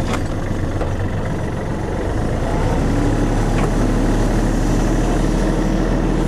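Kubota tractor's diesel engine running steadily, growing a little louder about two and a half seconds in as it takes more throttle.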